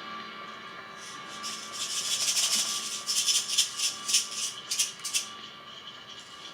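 Experimental noise improvisation through an amp and effects pedals: a steady drone of many held tones, with a loud scratchy rubbing noise in quick, irregular strokes from about a second in until about five seconds, then fading back to the drone.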